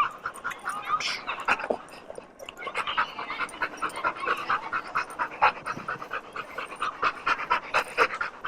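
A dog panting in quick, even breaths, several a second.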